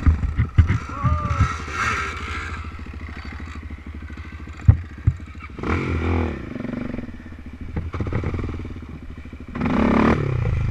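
Off-road engine running with fast, even firing pulses, opening up loudly twice (about six seconds in and near the end), with sharp knocks and clatter as the machine is ridden over rough ground.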